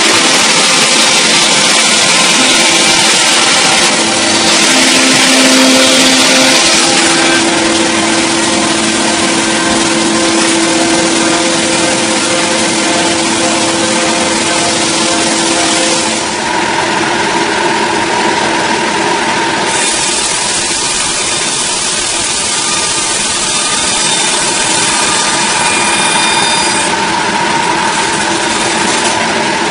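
An engine runs steadily throughout, with a steady whine over mechanical noise. About halfway through the pitch and tone shift, and again a few seconds later.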